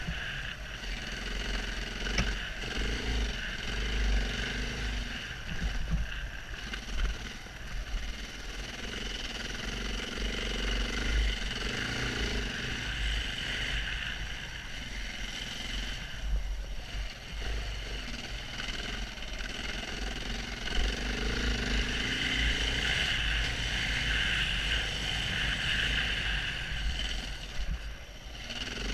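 A KTM 690 Enduro R's single-cylinder four-stroke engine running under way on a dirt trail. Its pitch rises and falls as the throttle is worked, and it is strongest near the end. Wind rumble buffets the on-board camera microphone throughout.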